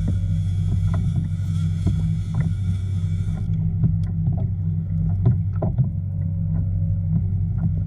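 A kayak on open water: a steady low hum runs throughout, with irregular light knocks and slaps against the hull. A high hiss cuts off about three and a half seconds in.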